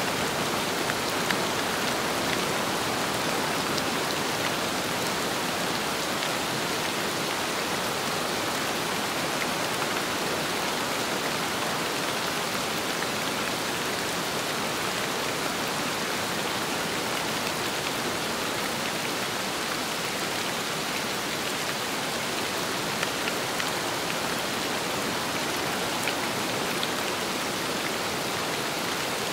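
Steady rain falling, an even hiss of many drops with a few louder single drops now and then.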